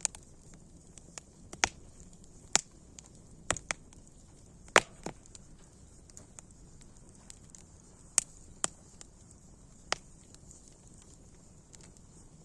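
Wood campfire crackling: sharp pops at uneven intervals over a faint steady hiss, the strongest about one and a half, two and a half and five seconds in.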